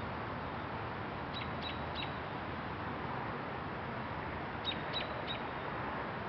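A bird calling in two runs of three short high notes, the notes about a third of a second apart, over a steady hiss.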